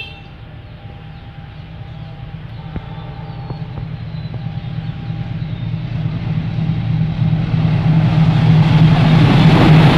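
Passenger train approaching along the track, its low rumble and rail noise growing steadily louder as it nears.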